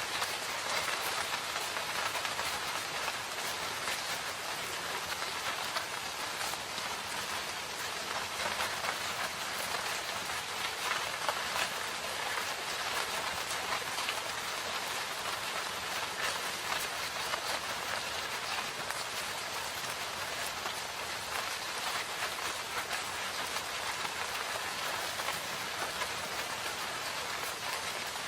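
Steady rain falling in a forest, an even hiss with many close, distinct drop patters.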